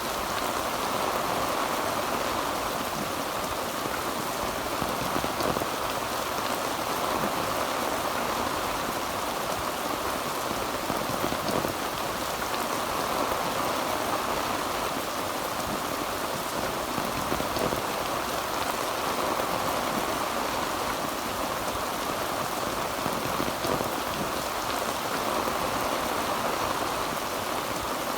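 Heavy rain falling steadily on a tin roof: a dense, even patter of drops with no thunder.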